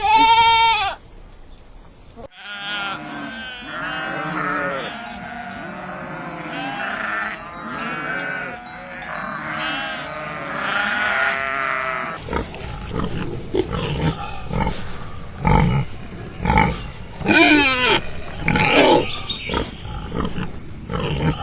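Farm animals calling: one loud bleat right at the start, then many overlapping calls from several animals at once. About twelve seconds in the sound changes abruptly to knocks and scattered animal calls.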